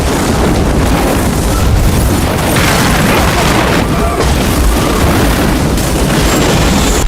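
Anime explosion sound effect of the Almighty Push shockwave: a continuous loud blast and rumble of destruction with a heavy low end.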